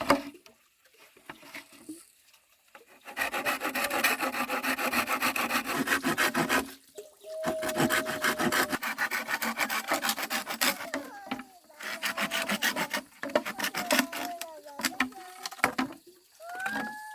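Wood being worked by hand in long runs of rapid rasping strokes. Short wavering pitched animal calls join in during the second half, with one clearer call near the end.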